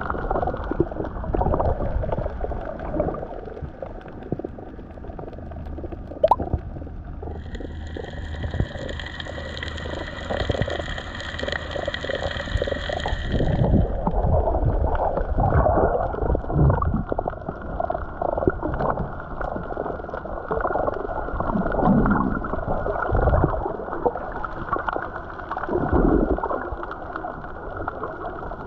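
Muffled gurgling and rushing water, as heard by an action camera held underwater. About seven seconds in, a higher steady hiss or whine joins for roughly six seconds, then stops.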